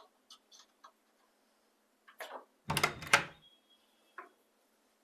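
A door being unlocked and opened: a few light clicks of key and latch, then a loud double bang of the door about three seconds in, a brief high squeak and a last click.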